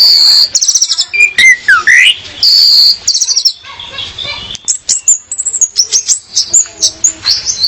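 Orange-headed thrush, a female, singing a loud, varied run of high-pitched song: quick trills, a sweeping note that falls and rises again, then a string of short sharp notes.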